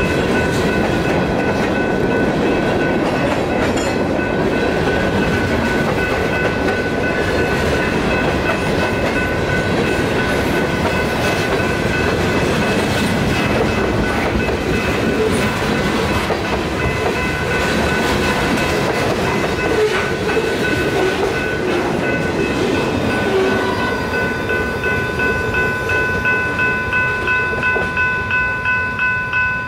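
Freight cars rolling past with wheel-on-rail clatter and rumble, while a grade-crossing bell rings steadily. About three-quarters of the way through the train noise drops away and the bell's rapid strokes stand out.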